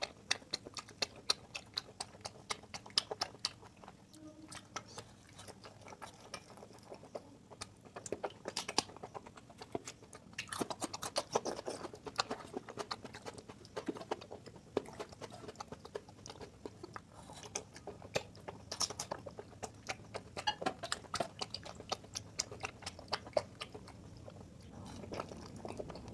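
A person chewing food close to the microphone: many short, irregular wet smacks and clicks of the mouth.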